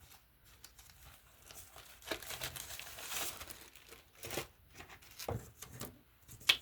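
Paper and card rustling and crinkling as craft papers are handled and put away, with a couple of light knocks and a sharper click near the end.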